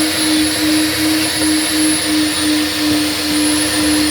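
Coin-operated car-wash vacuum running steadily, its hose sucking air with a rushing noise over a steady hum and a faint high whine.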